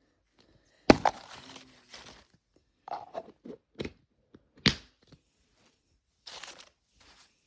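Hard plastic toy capsule being handled and opened: a sharp crack about a second in followed by crinkling, then a run of clicks and knocks and another sharp click past the middle, with a short crinkle near the end.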